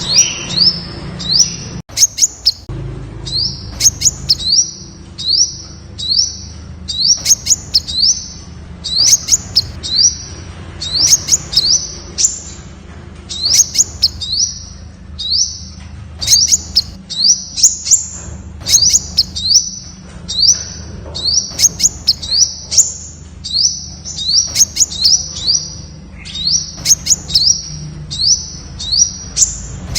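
Temminck's sunbird calling: short, high, upward-slurred notes repeated in quick runs of several a second, over a low steady hum.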